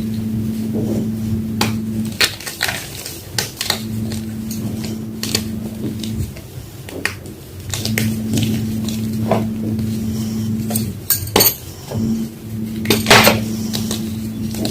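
Homemade gym chalk block being crushed: crunching, crumbling and clicking crackles come at irregular moments, the loudest near the end. Under it is a low hum that comes and goes every few seconds.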